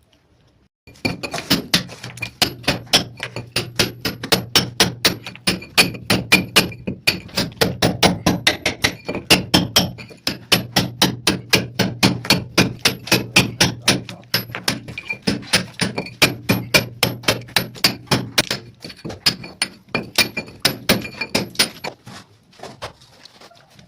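Hammer and chisel chasing a channel into a masonry wall for a pipe: rapid, even blows, about four a second, that thin out and stop near the end.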